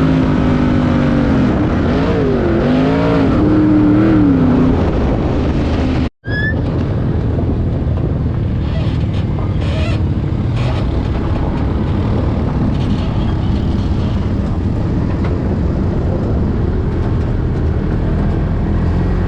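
A car engine running, its pitch dipping and rising again over the first few seconds. Then a sudden break about six seconds in, followed by a steady rumble of engine and road noise.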